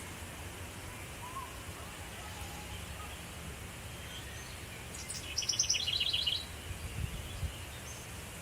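A small songbird sings one short, rapid trill about five seconds in, a quick run of high notes that steps down to a lower pitch partway through. Steady wind rumble on the microphone runs underneath.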